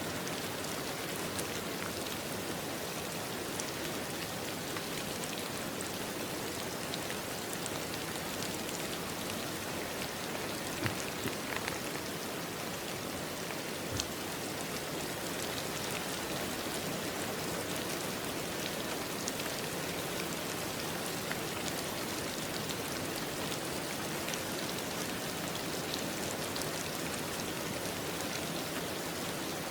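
Steady rain falling on a surface, an even hiss with scattered individual drop ticks; a few louder drops land around the middle.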